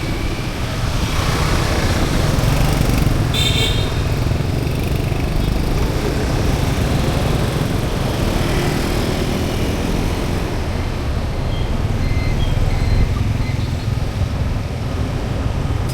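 Road traffic passing on a city street: a steady run of engine and tyre noise, with a brief high-pitched sound about three and a half seconds in.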